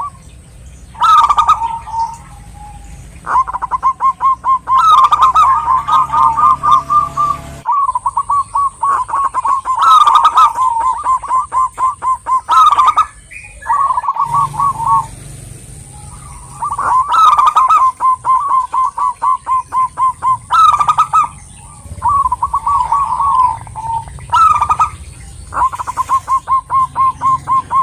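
Zebra dove (perkutut) calling: phrase after phrase of rapid, staccato cooing notes, with brief pauses between phrases.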